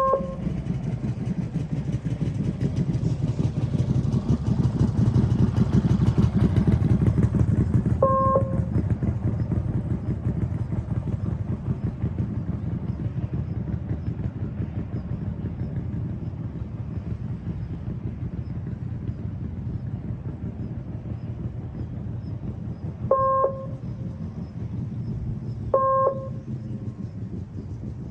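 Motorcycle engine running at low practice-course speed, growing louder a few seconds in and then easing off. Four short, pitched beeps cut in over it: once at the start, once about a third of the way in, and twice near the end.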